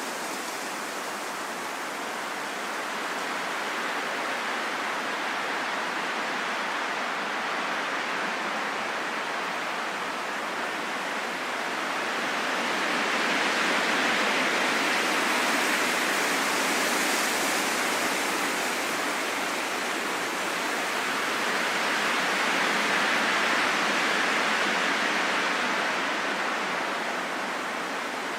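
Wind blowing as a steady rush, rising in two long gusts, one about halfway through and another near the end.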